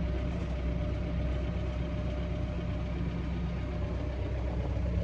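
John Deere 4066R compact tractor's diesel engine idling steadily.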